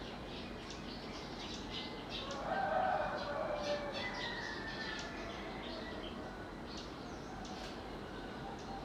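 White-rumped shama calling: quick, high chirping notes throughout, with a louder, harsher, lower call about two and a half seconds in.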